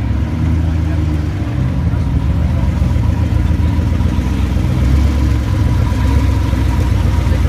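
Supercar engine idling with a steady, deep rumble, heard close up.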